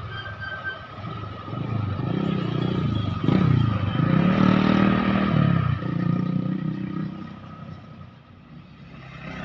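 Motor vehicle engine passing close on a road: its pitch glides down and back up, it is loudest in the middle, and then it fades away.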